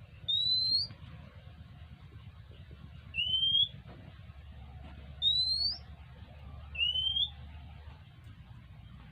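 Oriental magpie-robin calling: four clear, rising whistled notes, each about half a second long, spaced a couple of seconds apart.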